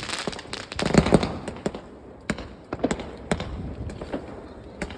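Fireworks and firecrackers going off in a string of sharp bangs and cracks at irregular intervals, loudest about a second in.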